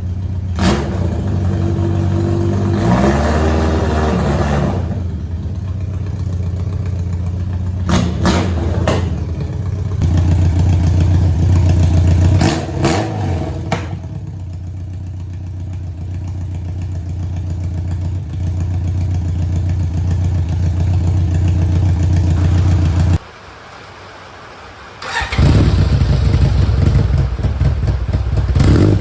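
1991 BMW K1's inline-four engine idling through an aftermarket exhaust, with a rising rev about three seconds in and several quick throttle blips. The sound drops away for about two seconds near the end, then the idle resumes.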